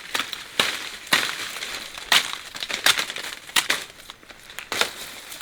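Irregular sharp crunches and rustling, about eight strokes spaced half a second to a second apart, as dry vegetation is worked by hand.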